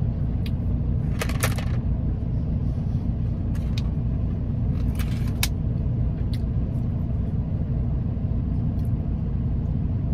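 Steady low rumble of a car idling, heard inside the cabin, with a few short clicks and smacks from chewing about a second in and again around the middle.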